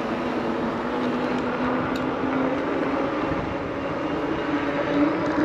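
A steady engine drone whose hum rises slowly in pitch, over a constant rush of moving air.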